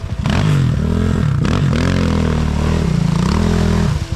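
Enduro motorcycle engine revving hard and unevenly, its pitch swinging up and down several times as the rider works the throttle. The engine note drops away near the end.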